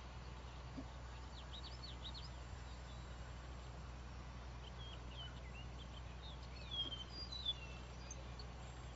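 Small birds chirping in short, quick calls: one cluster about a second in and more from about five to eight seconds in, loudest around seven seconds. Under the chirps runs a faint, steady low hum.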